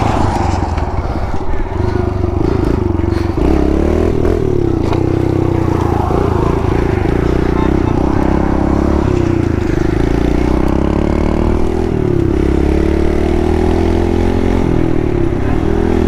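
Kawasaki KLX110 pit bike's 110cc single-cylinder four-stroke engine running under way. Its pitch climbs and drops with the throttle and gear changes, with a long slow rise in the second half.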